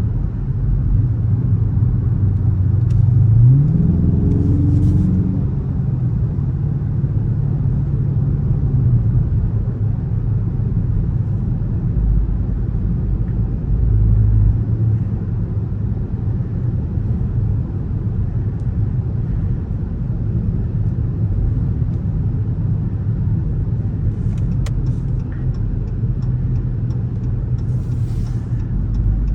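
Dodge Charger R/T's 5.7-litre HEMI V8 running under way. The pitch rises about three to four seconds in as the car accelerates, then settles into a steady low drone.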